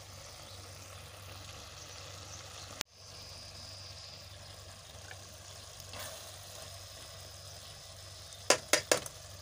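Okra frying gently in a pan, a steady low sizzle, with three quick knocks of a steel spatula against the pan near the end. The sound cuts out for an instant about three seconds in.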